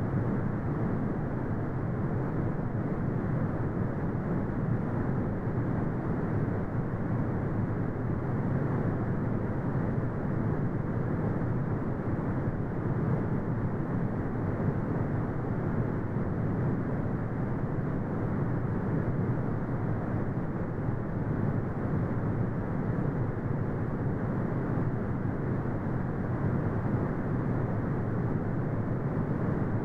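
Synthetic brown noise: a steady, deep rumbling hiss with its weight in the low end and no highs, unchanging throughout.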